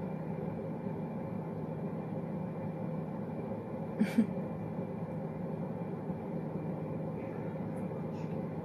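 Steady low hum of a car cabin with the engine running, broken about four seconds in by two quick clicks in a row.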